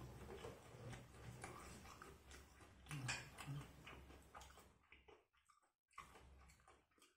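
Quiet, close-up mouth sounds of a person chewing fried chicken: irregular small wet clicks and smacks, with a short low hum about three seconds in, fading off after about five seconds.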